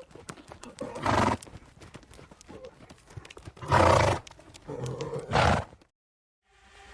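A horse's hooves clip-clopping in a run of sharp clicks, with three short loud vocal sounds from the horse: about a second in, near four seconds and near five and a half seconds.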